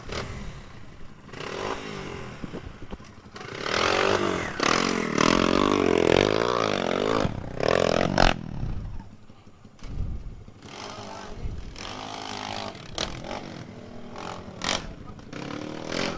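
Trail motorcycle engine revving up and down repeatedly, loudest in the middle stretch, with scraping and clattering.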